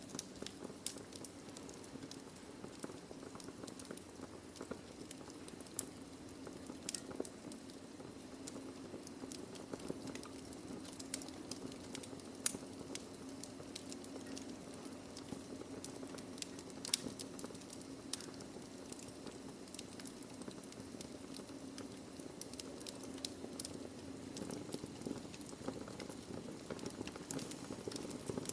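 Wood fire in a fireplace crackling, with irregular sharp pops and snaps over a steady low rumble of burning logs. The loudest pops come about twelve and seventeen seconds in.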